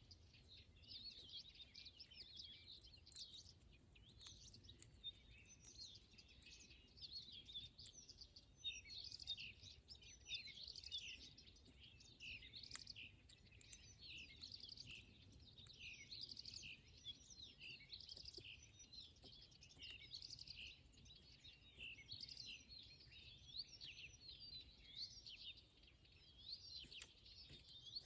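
Faint, continuous chirping of small birds: many short, high calls overlapping, busiest in the middle.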